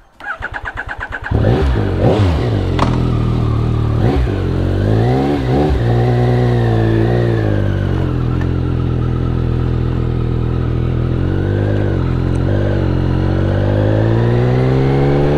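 Yamaha MT-09 SP's 889 cc three-cylinder engine turning over on the starter and catching about a second in. It takes a few quick throttle blips and then settles to a steady idle, with revs rising near the end.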